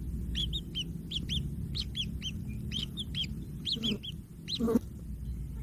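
Kingfisher chicks calling: a run of short, high chirps, about four a second, then two harsher, louder calls near the end.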